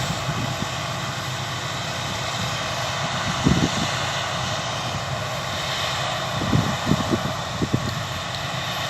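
Claas Lexion 660 combine harvester running steadily while it harvests, an even mechanical drone. A few brief low thumps about a third of the way in and again near the end.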